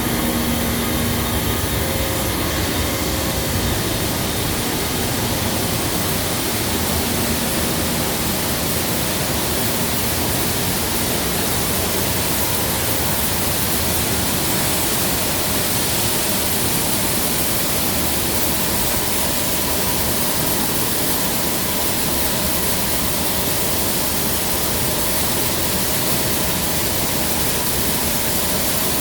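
Grain vacuum conveyor running, giving a loud, steady rushing noise from its blower and the air and grain moving through it. A low hum fades out in the first few seconds.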